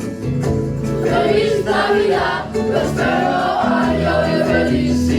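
A student choir singing a holiday song over instrumental accompaniment with sustained bass notes.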